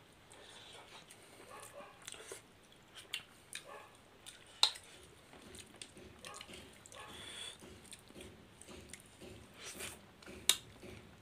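Close-up chewing and mouth noises of two people eating rice and fish curry by hand, with fingers working the rice on the plate. Scattered sharp clicks come through, the loudest about four and a half and ten and a half seconds in.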